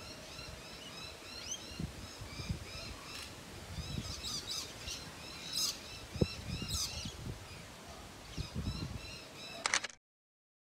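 Small birds chirping outdoors: a long run of short high chirps repeated several times a second, with a few louder, sharper calls in the middle and some soft low thumps underneath. The sound cuts off abruptly near the end.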